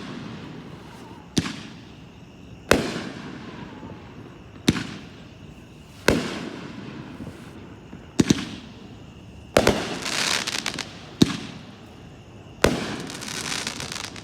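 A 13-shot, 200-gram consumer firework cake firing shot after shot: sharp bangs about every one and a half seconds, each trailing off in a hiss, with crackling after a couple of them.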